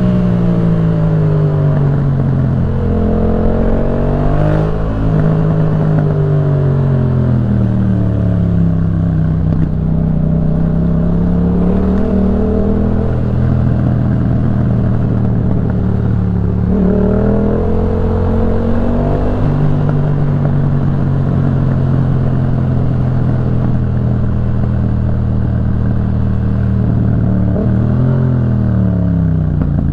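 Yamaha MT-07's 689 cc parallel-twin engine through a Jeskap K4 full aftermarket exhaust, heard from the rider's seat while riding. The engine pitch climbs in a few short pulls that break off sharply at gear changes, with long stretches of the revs easing down in between.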